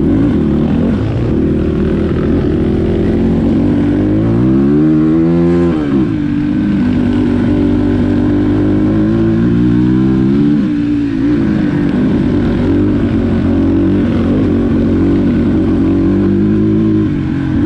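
Dirt bike engine running close by, with the throttle opened twice, a few seconds in and again about halfway, so that its pitch rises and falls back before settling to a steady run.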